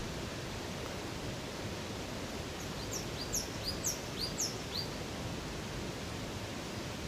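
Steady rush of flowing water from a river or waterfall. About three seconds in, a bird sings a quick run of about eight short, high, down-slurred whistles lasting about two seconds.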